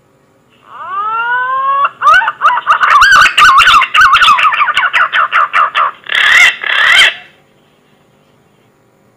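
Punai (green pigeon) lure-call song: a rising whistle, then a fast run of wavering musical whistles lasting about five seconds, ending in two louder bursts, over a faint steady hum.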